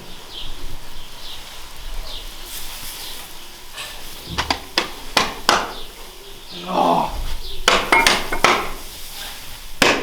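A run of sharp knocks and clatters: several in quick succession about halfway through and another cluster a little later, with a short pitched sound between them.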